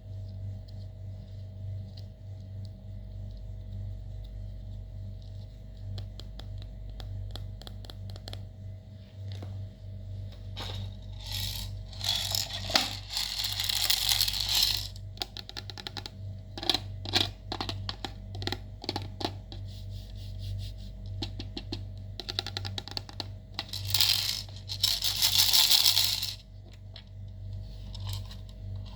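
Slime being mixed and squished by hand: a run of sticky clicks and crackles, with two louder stretches of squelching, one around the middle and one a few seconds before the end. A steady low hum lies underneath.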